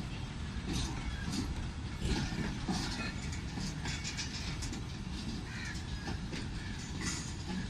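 Passenger train coaches rolling along the track, a steady rumble with irregular sharp clicks and squeaks from the wheels and couplings.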